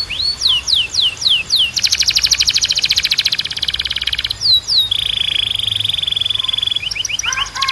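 Canary singing a run of varied phrases: quick falling whistled notes, then a rapid trill for about two and a half seconds, a lower rolling phrase, and held lower notes near the end.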